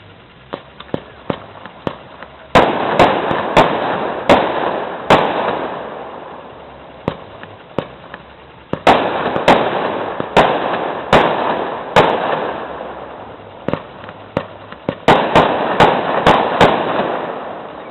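Aerial firework shells bursting in three volleys of sharp bangs. Each volley comes after a run of softer launch pops, and each is followed by a noisy rumbling tail that fades over a few seconds.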